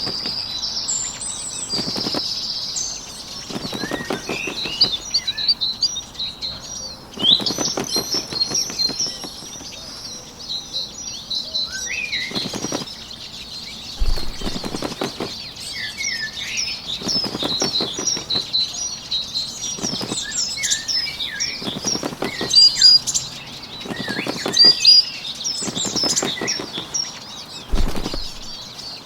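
A small bird's wings flapping in short fluttering bursts every two to three seconds, with quick high chirps and tweets throughout.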